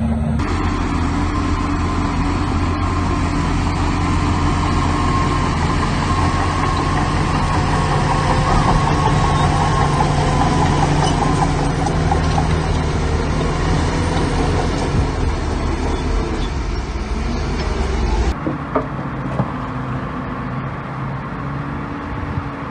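Heavy earth-moving machinery's diesel engine running steadily under load. About 18 seconds in the sound cuts to a quieter engine with a few sharp knocks.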